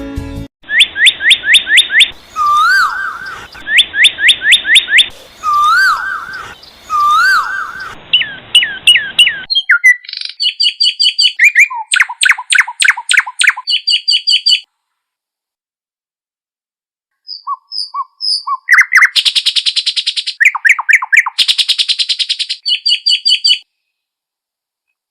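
Songbird singing loudly in fast runs of sharp rising chirps and whistled trills, in three stretches with a pause of a few seconds in the middle.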